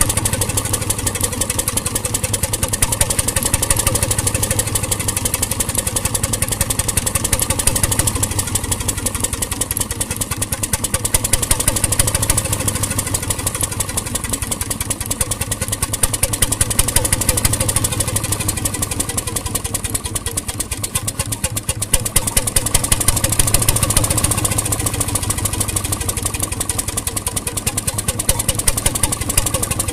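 1921 RSM 3½ HP hot-bulb marine engine running, a steady, rapid beat of firing strokes that swells and eases slightly in loudness over several seconds.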